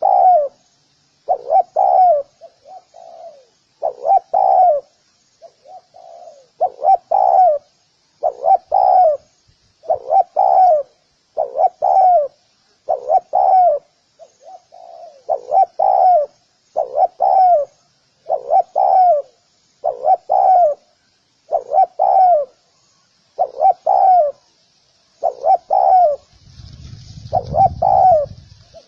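Spotted dove cooing over and over, a phrase of low coos about every second and a half, with faint high chirping from other birds in the background. A low rumble, like wind on the microphone, comes in near the end.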